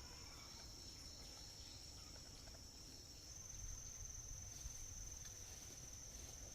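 Faint, steady, high-pitched trilling of insects in chorus. Its pitch steps up slightly about halfway through.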